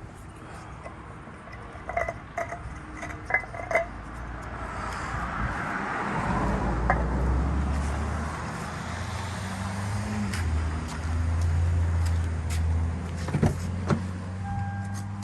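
A few metallic clinks, then a vehicle engine's low, steady rumble that sets in about five seconds in and runs on.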